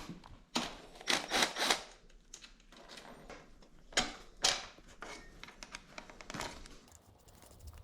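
Irregular metallic clicks and knocks as hand tools and dirt bike parts are handled during a teardown, with a cluster near the start and a few single louder clanks later.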